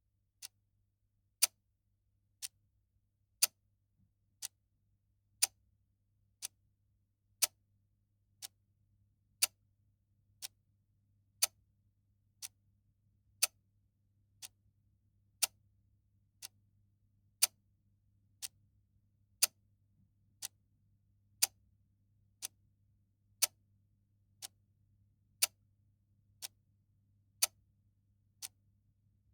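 Clock ticking steadily at one tick a second, the ticks alternating louder and softer in a tick-tock pattern, over a faint steady low hum.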